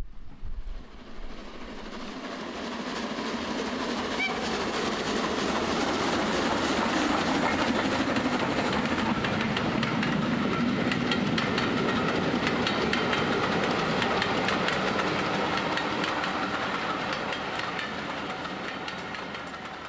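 A train running along the track, its wheels making a rapid, continuous clicking over the rails. It grows louder over the first several seconds, holds steady, then fades out near the end.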